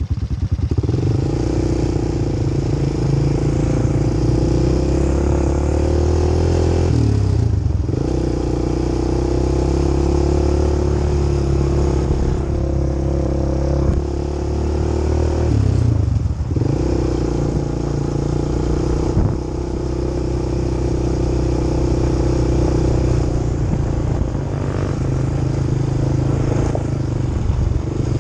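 Quad bike engine running under way at a steady throttle. The note drops away briefly twice, about a quarter of the way in and just past halfway, then picks up again.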